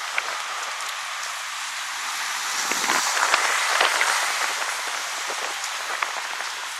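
Wind blowing through birch trees, the leaves rustling and ticking in a steady hiss that gusts up about halfway through and then eases.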